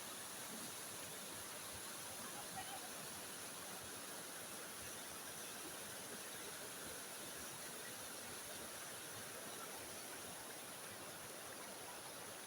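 Waterfall water running with a steady, even noise.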